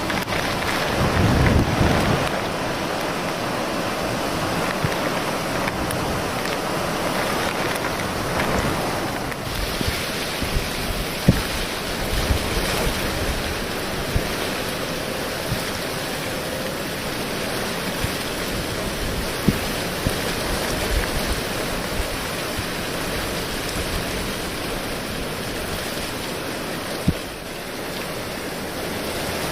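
Steady typhoon storm noise: wind buffeting the microphone over rain and rushing floodwater, with a few sharp knocks.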